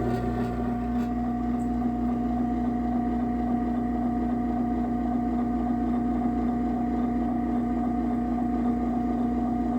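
Craftsman half-horsepower garage door opener running steadily with an even motor hum while it closes the door; the motor stops near the end.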